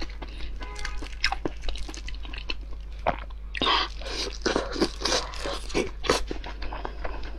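Close-miked eating of a glossy knotted sausage. Light clicks come first, then a loud bite about three and a half seconds in, followed by chewing with many sharp, wet clicks. A steady low hum runs underneath.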